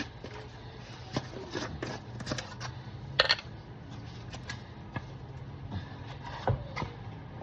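Scattered light clicks and taps from handling kitchen items and seasoning containers, the loudest about three seconds in, over a steady low hum.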